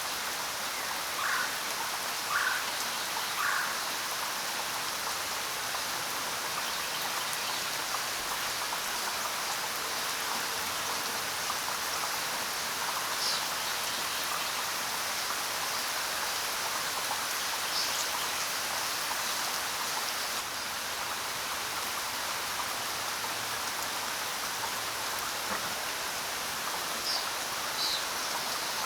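Steady rain falling, with a few short bird calls: three lower notes a second or so apart early on, and single high chirps now and then later.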